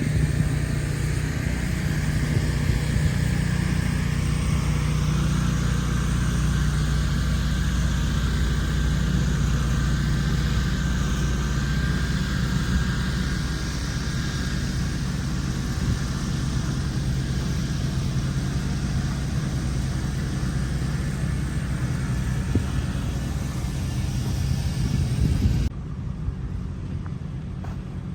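Engine running steadily with a low drone. The sound changes abruptly and drops in level near the end.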